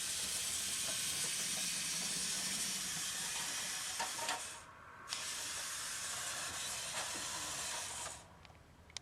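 A steady hiss that breaks off for about half a second midway, then resumes and stops shortly before the end, leaving a few faint clicks.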